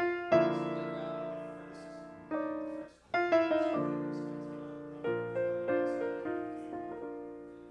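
Piano playing a slow series of chords, each struck and left to fade, with a quick run of notes about three seconds in.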